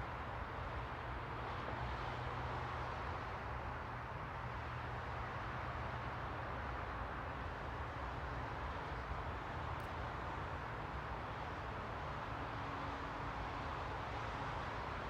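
Steady white-noise ambience: an even hiss centred in the midrange over a low rumble, with one faint click about ten seconds in.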